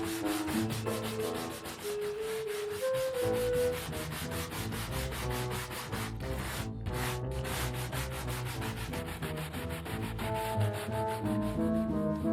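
Large scrubbing brush scrubbed back and forth in quick, even strokes, over soft background music.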